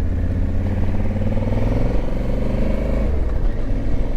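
Motorcycle engine accelerating, its pitch rising steadily for about two and a half seconds and then falling away about three seconds in, over a steady low rumble.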